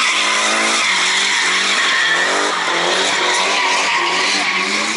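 Drift car on track, its engine held at high revs with the pitch wavering around the middle, over the rushing noise of tyres skidding sideways.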